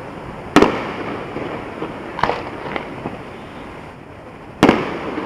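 Fireworks going off: two loud sharp bangs about four seconds apart, with a couple of smaller pops between them over a steady background crackle.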